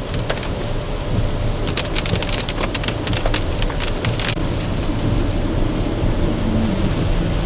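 Heavy rain drumming on a car's roof and windscreen, heard from inside the cabin while driving, with many irregular sharp drop strikes over a steady low road and engine rumble.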